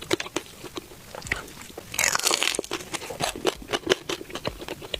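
Close-up eating of fried skewers: repeated clicks of chewing and biting, with a loud crunching bite about two seconds in.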